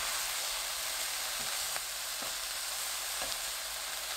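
Spam and shishito peppers sizzling in a frying pan in a boiling soy-and-syrup glaze while being stirred, with a steady hiss and a few faint clicks of the utensil against the pan.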